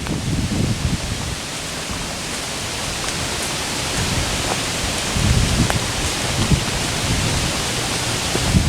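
Steady hiss of rain falling in woodland, with scattered sharp drop ticks and a few low thuds and rumbles now and then.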